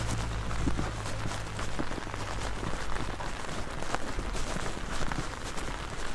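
Heavy rain falling steadily, countless drops pattering on an umbrella overhead and the pavement around it. A low steady hum underneath fades out about two seconds in.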